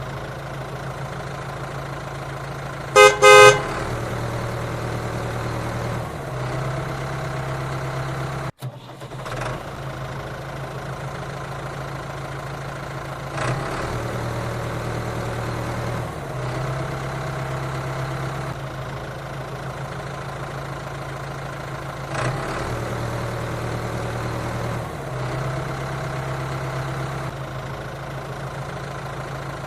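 Steady engine running sound, with a vehicle horn sounding twice in quick succession about three seconds in. There is a brief break in the sound a little past eight seconds.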